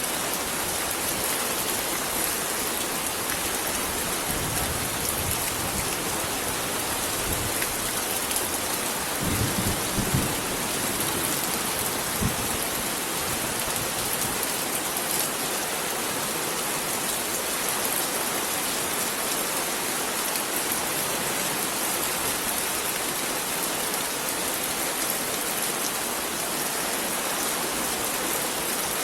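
Heavy rain falling steadily, a dense even hiss. About a third of the way through there is a brief low rumble, followed shortly by a single low knock.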